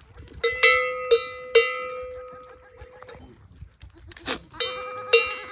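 A metal livestock bell clanking irregularly as the animal wearing it moves. There are four quick strikes in the first second and a half, each ringing on at the same pitch, a single knock near the middle and two more strikes near the end.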